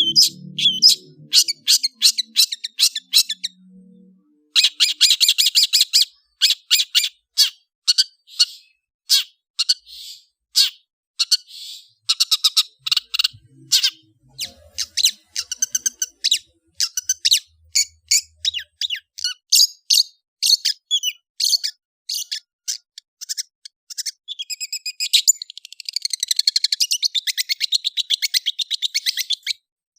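Long-tailed shrike (cendet) singing: quick runs of short, sharp, high chattering notes broken by brief pauses, with a denser run of notes near the end.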